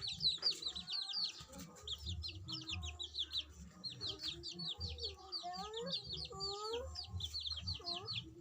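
Birds calling: a fast, unbroken run of high, falling peeps, several a second, with lower calls that rise and fall in pitch coming in during the second half.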